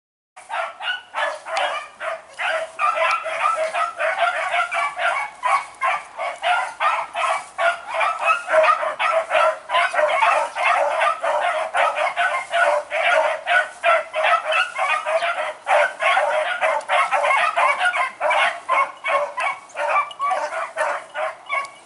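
A pack of beagles baying continuously in overlapping voices as they run a rabbit on the scent.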